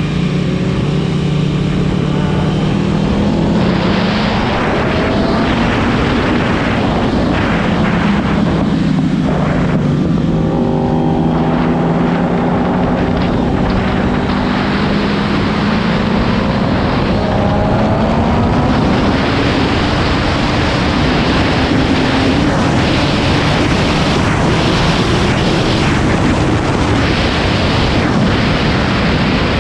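Motorcycle engine at speed on a racetrack, its pitch rising and falling repeatedly as it accelerates and slows, under heavy wind noise on the microphone.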